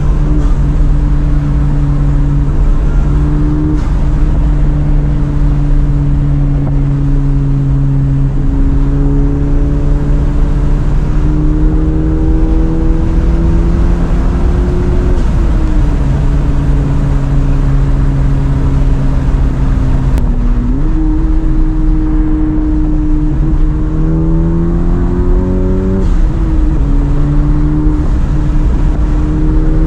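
10th-generation Honda Civic running on E85, heard from inside the cabin over steady road noise: the engine drones at a steady pitch, then climbs under acceleration and drops at each gear change, about halfway through and again near the end, before climbing once more.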